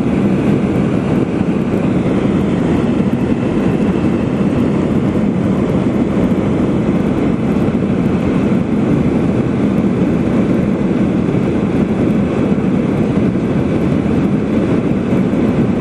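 Steady jet engine and airflow noise heard inside the cabin of an airliner in flight, from a seat behind the engine, a loud even rumble and hiss.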